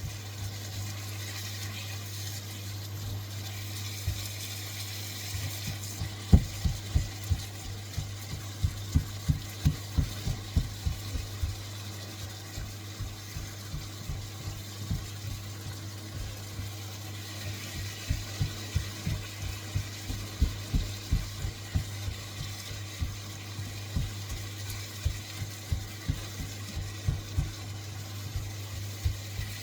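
Dumpling dough of flour and margarine being mixed in a bowl: soft, irregular thuds, often two or three a second, starting about six seconds in, over a steady low hum.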